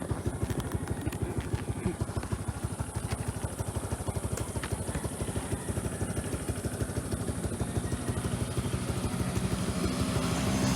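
Small single-cylinder motorcycle engine, the Suzuki Skydrive 125 scooter's, running with a steady rapid putter that grows a little louder toward the end.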